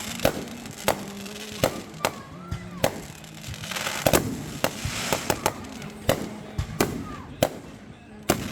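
Fireworks going off in an irregular series of sharp bangs and cracks, several coming in quick succession.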